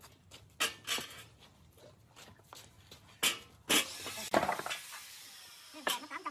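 A few sharp knocks and clatters, then a hiss lasting about two seconds from just before halfway through.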